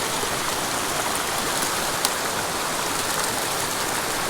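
Mountain creek water rushing and splashing over rocks, a steady, even sound, with one brief click about two seconds in.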